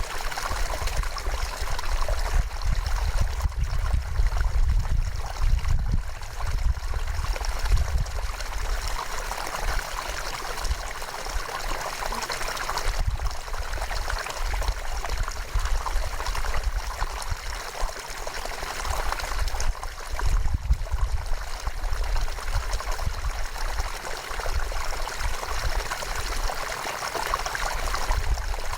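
River water flowing steadily, a continuous rushing and trickling, with a low rumble underneath that swells and fades every so often.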